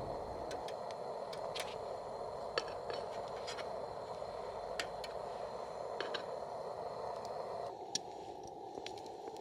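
Wood fire crackling: irregular sharp pops and snaps over a steady hiss. The hiss changes abruptly about eight seconds in.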